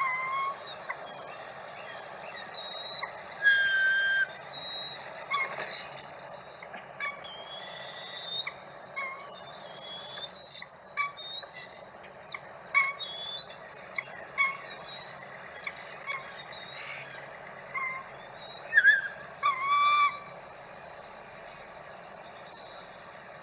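Bald eagles calling at the nest: a string of short, high chirps and whistled notes, some sliding up or down in pitch, over a steady background hiss. The loudest calls come about three seconds in, near the middle, and in a run toward the end.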